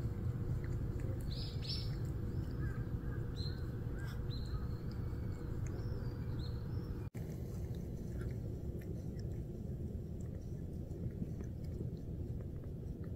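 Steady low outdoor background noise with small birds chirping in short calls through the first few seconds, and faint wet clicks of a cat licking and grooming its paw.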